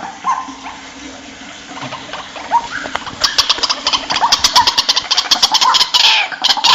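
White-breasted waterhen calling: short repeated calls, then from about halfway through a loud, fast run of harsh notes.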